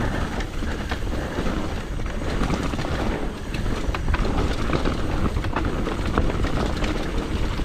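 Mountain bike descending a wet, muddy trail at speed: wind on the microphone and tyres on dirt, with the chain and frame clicking and rattling over bumps.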